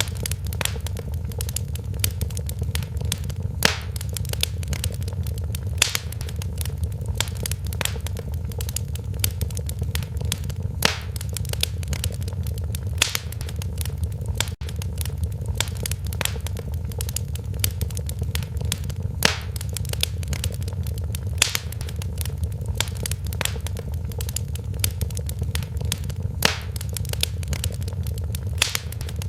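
Wood fire burning in a fireplace: a steady low rumble of the flames with irregular crackles and sharp pops, a few of them louder than the rest.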